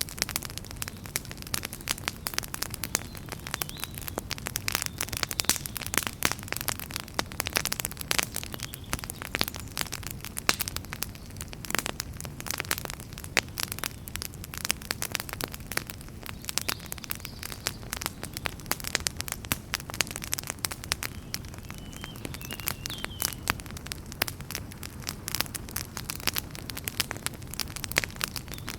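Fire in a fireplace crackling steadily: dense, irregular sharp pops and snaps over a low, steady rumble of the flames.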